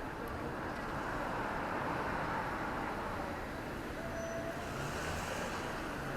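Steady road traffic noise, an even background hum of city traffic.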